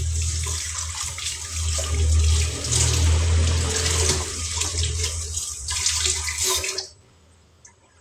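Water running from a tap into a sink, with uneven splashing, shut off about seven seconds in.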